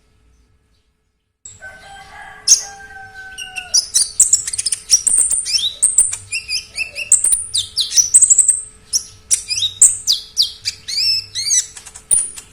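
Konin songbird singing a fast, varied song of high chirps, whistles and trills, starting about a second and a half in after a brief silence.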